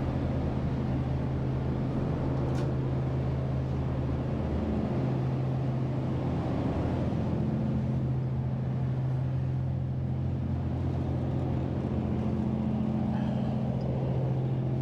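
The ferry's engines droning steadily as they drive her water-jet propulsion: an even hum with a few held low tones, wavering slightly about five seconds in.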